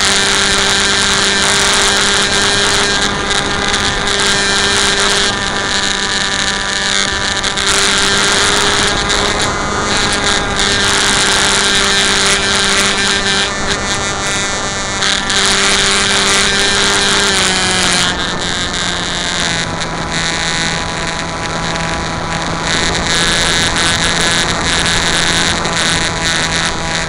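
Electric motor and propeller of an RC Bixler airplane droning steadily under power, with wind hiss over it. About seventeen seconds in, the pitch drops slightly and holds lower, as the throttle is eased back.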